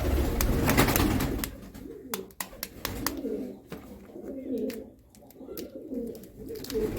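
Pigeons cooing over and over, with scattered sharp clicks and knocks.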